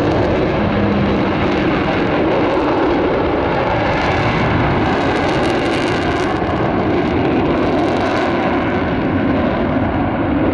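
Avro Vulcan bomber's four Rolls-Royce Olympus jet engines, loud and steady as the aircraft flies past. The hiss at the top end thins out near the end.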